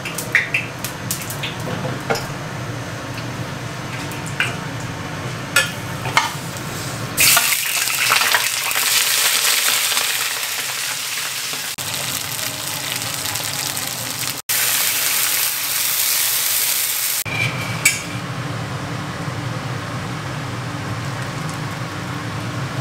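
Fish pieces frying in hot oil in a wok: a loud, even sizzle that starts abruptly about seven seconds in and cuts off about ten seconds later. Before and after it come scattered clicks and knocks of metal utensils and cookware over a steady low hum.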